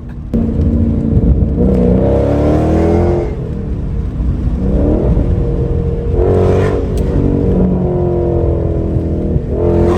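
V8 engine of an SRT muscle car accelerating hard. The revs climb, drop back at each gear change and climb again several times.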